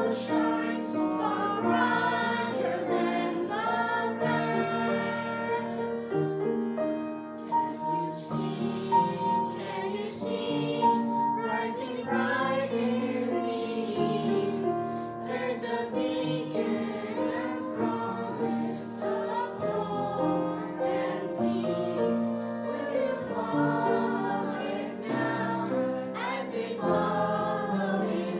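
Group of voices singing together, choir-style, with musical accompaniment.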